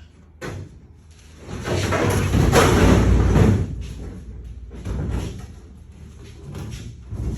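A loose car hood sliding and scraping as it is let down to stand on end, loud for about two seconds, followed by a few lighter knocks and a sharp thump near the end.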